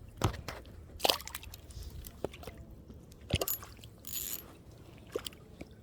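Handling noise from working a hook out of a small fish by hand: a few sharp clicks and rustles, with a short hiss about four seconds in.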